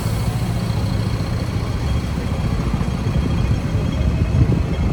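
Hong Kong double-decker tram running, a steady low rumble of wheels on the rails and the running gear, heard from on board.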